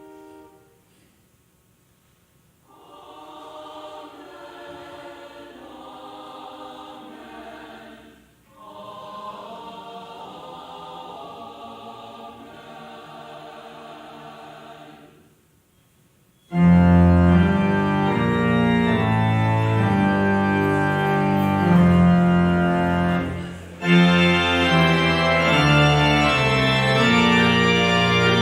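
Church organ playing: two soft phrases of held chords, then about halfway through a loud, full postlude starts suddenly, with a short break a few seconds later before it carries on.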